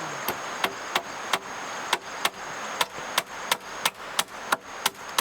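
Repeated chopping strikes, about three a second, each a sharp crack with a brief ring.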